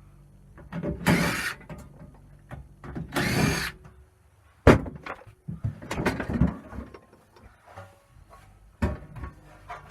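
Cordless drill-driver whirring in two short bursts as screws are backed out of a boiler's sheet-metal outer casing, then sharp knocks and clatter of metal parts.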